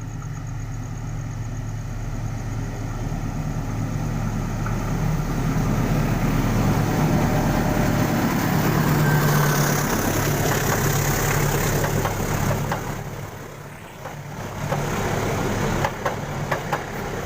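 Diesel-hauled passenger train passing: a steady low engine drone builds into a loud rumble of the train on the rails, eases off briefly, then comes back with a few sharp clicks near the end.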